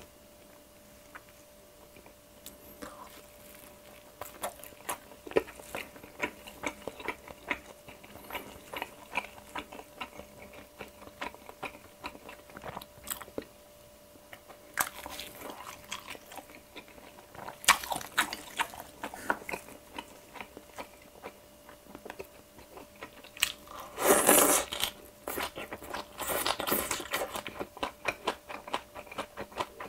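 Close-miked biting and chewing of a pan-fried Korean dumpling (mandu), many small wet mouth clicks, with several louder crunchy bites and chews in the second half.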